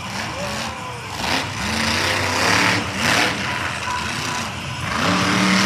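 Monster truck engine revving hard in repeated bursts, its pitch climbing and dropping, and getting louder and fuller from about five seconds in.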